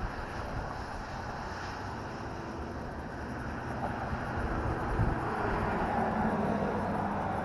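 Suzuki LS650 Savage's single-cylinder engine running while the motorcycle is ridden, under a steady rush of wind on the action camera's microphone. A thump comes about five seconds in, and the engine note grows a little louder and steadier after it.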